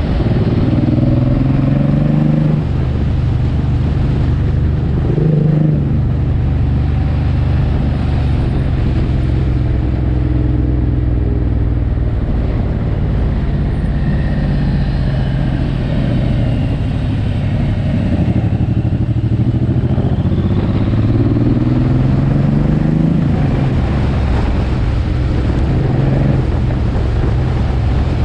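Suzuki M109R's big V-twin engine pulling along a winding road. Its note rises under throttle and drops back several times, with a quick sharp blip about five seconds in, over a steady rush of wind.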